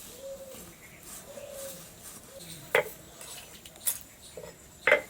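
Metal utensil knocking against a cooking pot: a few sharp clinks, the loudest two about two seconds apart.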